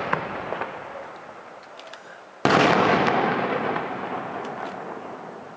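Aerial firework shells bursting: a bang just as it begins with a few small pops after, then a louder burst about two and a half seconds in that rolls away and fades over the next couple of seconds.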